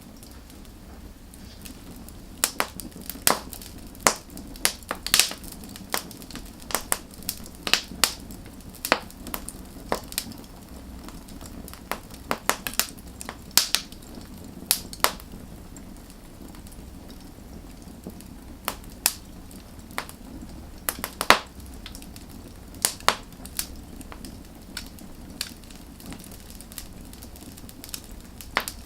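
Burning wood fire crackling and popping: irregular sharp snaps, several a second at times, over a steady low rush of the flames.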